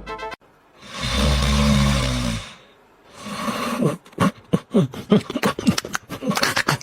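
An animal's rough growl lasting about a second and a half, then, from about four seconds in, a quick run of short calls, each falling in pitch.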